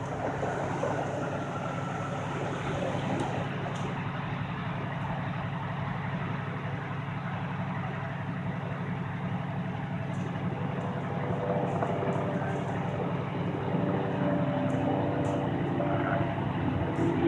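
Heavy vehicle engine idling steadily, getting a little louder over the last few seconds.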